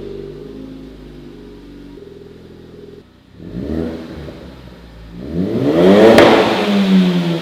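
Ford Focus ST's turbocharged 2.0-litre four-cylinder running through a new 3-inch straight cat-back exhaust with a Helmholtz resonator. It idles steadily, gets a short blip of the throttle, then a bigger rev that climbs to a peak and falls back to idle.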